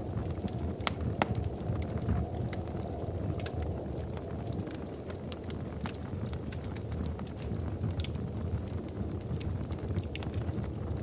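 Wood fire in a fireplace burning with a steady low roar and irregular sharp crackles and pops, a few louder snaps about a second in.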